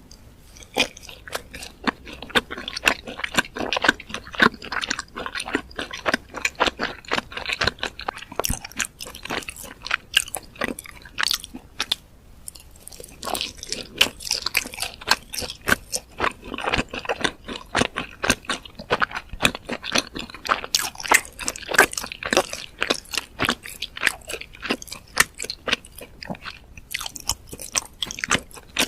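Close-miked eating sounds: steady chewing and crunching of fried food, dense irregular crackles with a short pause about twelve seconds in.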